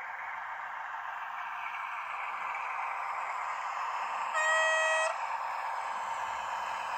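A diesel locomotive horn sounds one short blast, a little over half a second long, about four seconds in, over a steady running noise.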